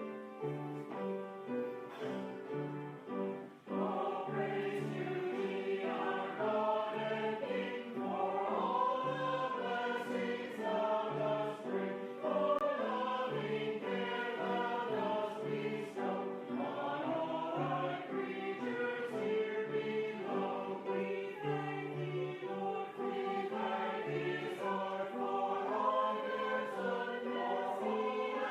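Choir singing a hymn with piano accompaniment, in held chords over a moving bass line.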